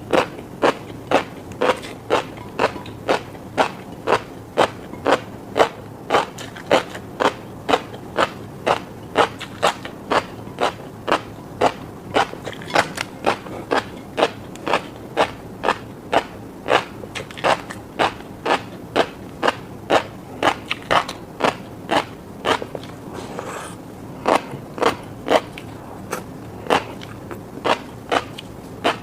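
Close-miked chewing of a mouthful of fish roe, the eggs popping and crackling in an even rhythm of about two pops a second.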